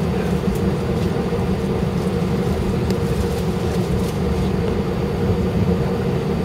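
Steady low rumble inside the cabin of a British Airways Airbus A319 on the ground before takeoff: engine and air-conditioning noise at a constant level, with a few faint ticks.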